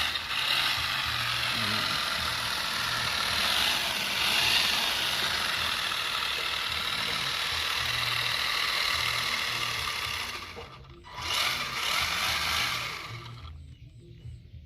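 Electric RC car driving at speed: a steady high motor whine with tyre and chassis rattle. It eases off about ten and a half seconds in, then runs again briefly before fading.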